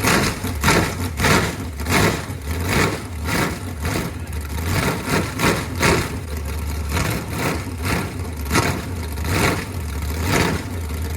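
Chevy 350 small-block V8 running on open headers, a steady low rumble punctuated by sharp loud pulses about every half second to second. It is running cleanly on its first start after sitting for years.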